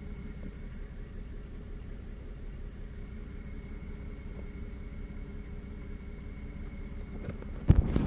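BMW E92 325i petrol straight-six idling with a logged combustion misfire, a thin steady high-pitched screech over the engine note, which the owner takes for an air leak. The screech stops shortly before a loud knock near the end.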